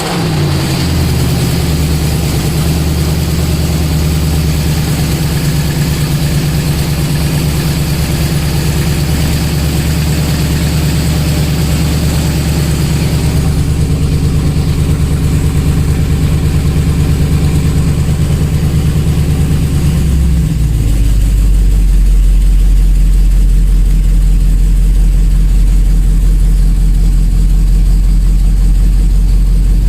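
Mercedes-Benz CL 63 AMG's V8 running at a steady fast idle after a cold start. About twenty seconds in, the idle drops to a lower, deeper note as the cold-start high idle settles.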